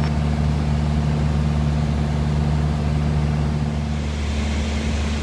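Aircraft engine droning steadily in flight, heard from the cockpit as a constant low hum with several steady tones. One of the tones fades about four seconds in.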